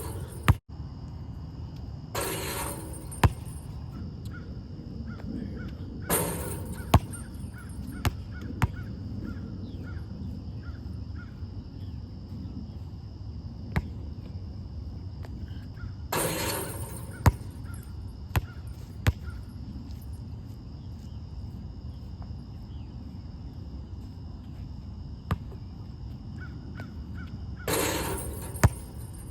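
Crows cawing in four separate bouts, over sharp single thuds of a basketball bouncing and hitting the rim on an outdoor court. A steady high insect hum runs underneath.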